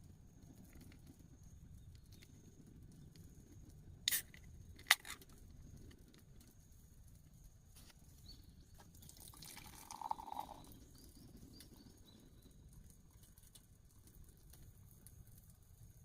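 Two sharp clicks about four and five seconds in, then a short splash of poured liquid about ten seconds in, over a faint steady outdoor background.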